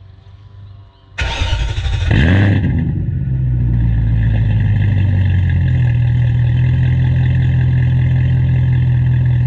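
BMW E39 540i's 4.4-litre V8 starting: about a second in the starter cranks briefly and the engine catches with a short rise in revs, then settles into a steady idle. Heard at the exhaust tips, with the older 4.0-litre V8's intake manifold fitted.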